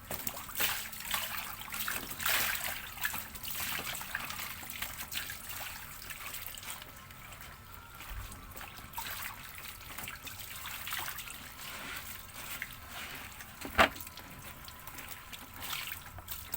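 Water splashing and trickling, with irregular wet slaps and crackles, as clothes are washed by hand. A single sharp knock near the end.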